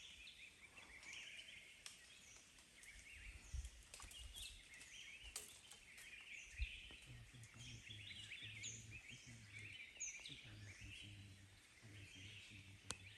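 Faint chorus of small wild birds chirping, many short high calls overlapping, with a few soft knocks.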